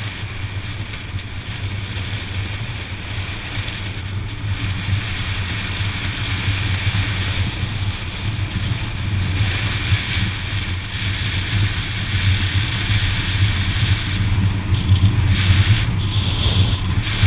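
Motorcycle engine running steadily while riding, with wind rushing over the helmet or bike camera's microphone; it grows louder near the end.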